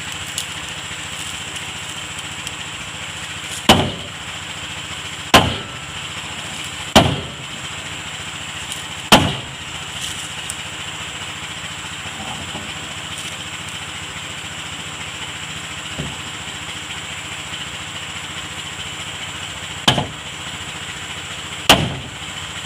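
Hammer blows on wood, six sharp strikes at uneven intervals with a pause in the middle, typical of nailing planks onto a wooden boat hull. A steady motor hum runs beneath.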